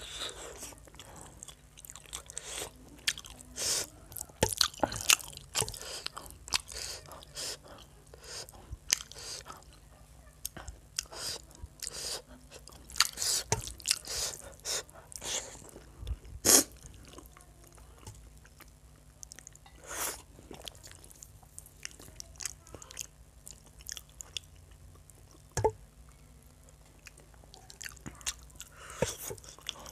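Close-miked chewing and biting of chicken curry with rice eaten by hand: irregular sharp, wet mouth clicks, with one louder snap about halfway through. Fingers squish through rice and gravy on a steel plate between bites.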